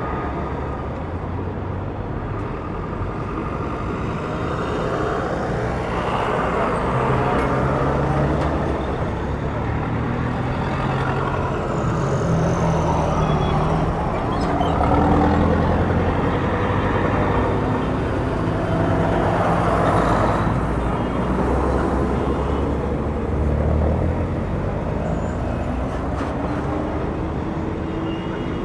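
City street traffic: a steady rumble of cars and heavier vehicles such as buses or trucks passing, with engines rising and falling as they go by.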